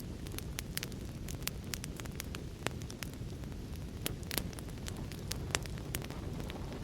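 Wood fire in a fireplace crackling, with sharp irregular pops several times a second, over a steady low rumble of the storm and heavy rain.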